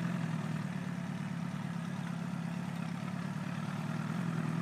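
Honda CBR1000RR's inline-four engine running steadily, its pitch holding level.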